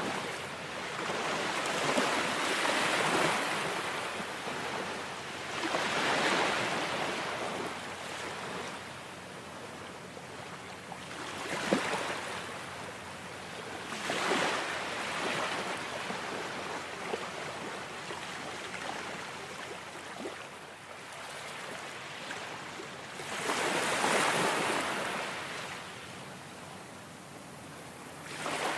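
Ocean waves breaking and washing up a shore, a rushing sound that swells and ebbs in irregular surges every few seconds, with quieter lulls between them.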